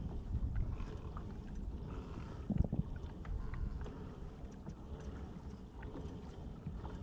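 Kayak on the water, with low rumbling noise from wind on the microphone, scattered small clicks, and a dull knock about two and a half seconds in.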